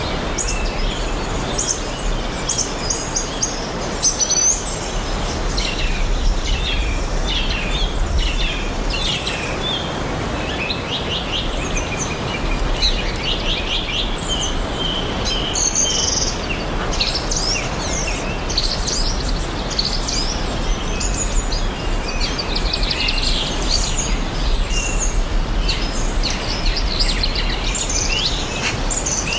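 Several songbirds chirping and trilling, many short overlapping calls, over a steady even hiss of outdoor background noise with a low rumble underneath.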